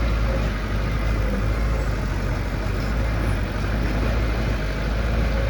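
Heavy construction machinery's diesel engine running steadily, with a deep, even engine sound and mechanical noise.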